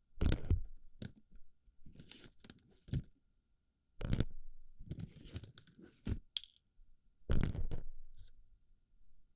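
Plastic BB pellets being pushed and packed into a microphone's ear, rattling and crunching in a series of short, loud bursts with brief quiet gaps between them.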